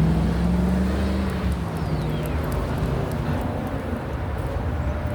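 Road traffic: a car passing close by, its engine hum fading after about a second and a half, over a steady rush of tyre noise on the wet road.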